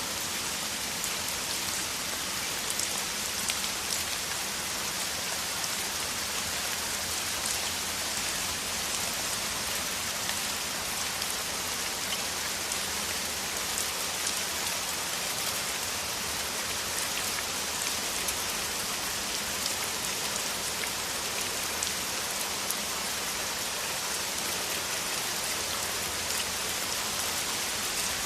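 Heavy rain falling steadily: a dense, even hiss dotted with many small drop taps.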